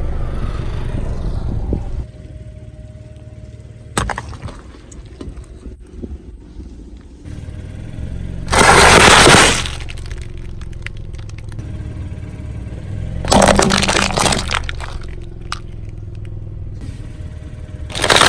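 A car's engine running low as its tyre rolls over objects and crushes them: a sharp crack about four seconds in, then two loud bursts of crushing and breaking, each about a second long, roughly five seconds apart.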